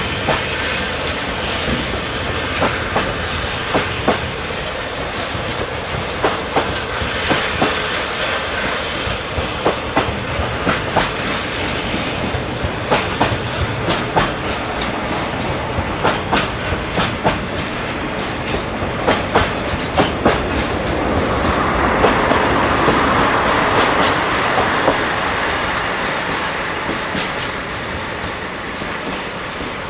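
Freight train wagons rolling past, their wheels clicking rhythmically over the rail joints with a steady rush of running noise. About twenty-two seconds in the noise swells louder for a few seconds, then eases off.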